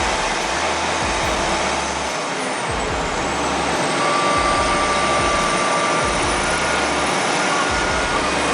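Heavy machinery running: a loud, steady engine and mechanical noise, with a faint steady whine partway through.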